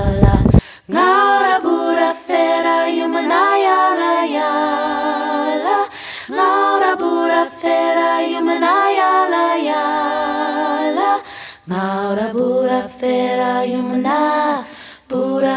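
A single voice singing unaccompanied, holding long notes with a slight waver and pausing briefly for breath between phrases. A loud rumble of wind on the microphone cuts off about half a second in.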